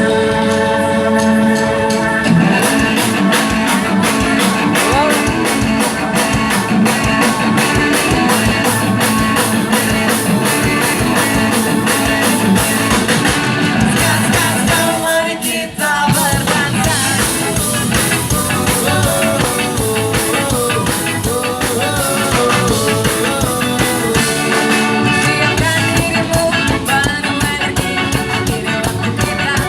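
Ska band playing loud music: a held chord for the first two seconds, then the full band comes in on a steady drum beat. The music drops out briefly just past halfway and picks straight up again.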